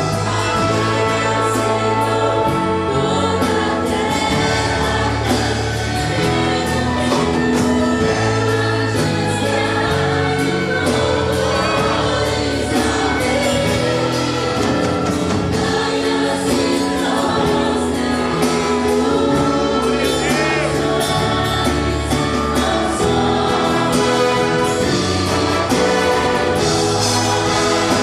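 Choir singing a gospel hymn with instrumental accompaniment and a steady beat.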